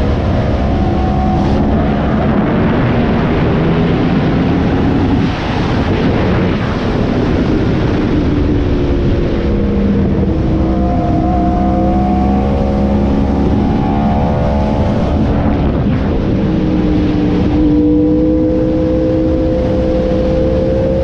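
Yamaha R1M's crossplane inline-four running through an SC Project exhaust, heard from on board with wind rush. The engine note rises and falls as the bike is ridden through the gears, with a brief dip about five seconds in and a steady climb in pitch over the last few seconds.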